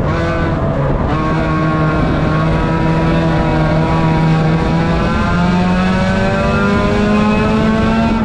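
A 1600-class banger racing car's engine, heard from inside its stripped cabin, running hard under throttle over a loud rattling noise from the bare shell. The revs hold steady, then rise a step about five seconds in and keep climbing slowly.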